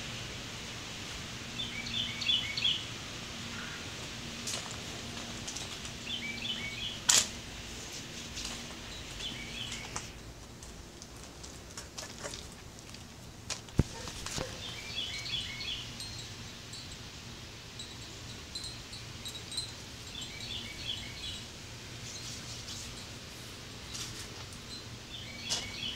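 A bird singing a short phrase of quick high notes, repeated every few seconds, over a steady low hum and outdoor background noise. Two sharp clicks stand out, one about a quarter of the way in and one about halfway.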